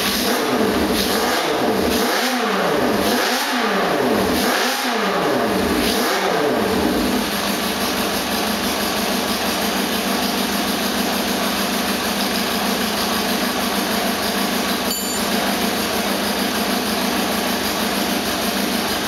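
Kawasaki Z500 motorcycle engine running with its carburettor jets just changed from 80 to 90, being set up for the first time. The throttle is blipped several times in the first six or seven seconds, the note rising and falling each time, then the engine settles to a steady idle.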